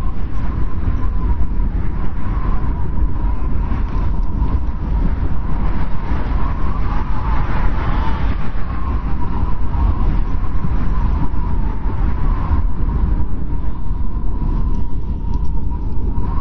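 Strong wind blowing steadily: a deep rumble with a thin whistle above it that wavers slightly in pitch.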